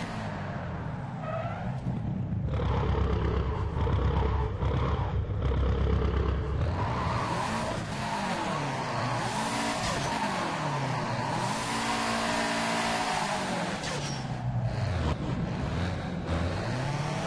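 Subaru car engine and exhaust running loudly, the engine note falling and rising several times as it is revved.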